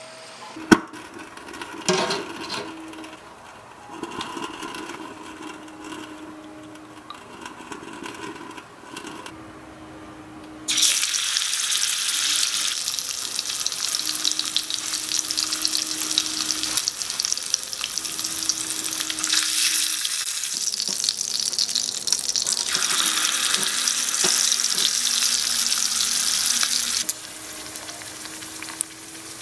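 A few light clicks and taps of small utensils. Then, about a third of the way in, a piece of pork belly goes into hot oil in a miniature metal wok and sizzles loudly and steadily, dropping off sharply near the end.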